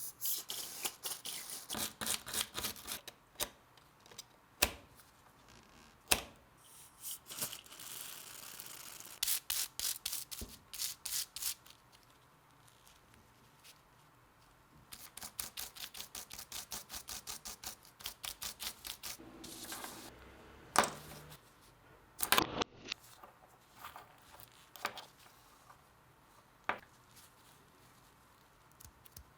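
Hand restoration work on an old electric drill's parts: runs of quick scrubbing or sanding strokes, about four a second, broken by single sharp clicks and knocks of small parts being handled.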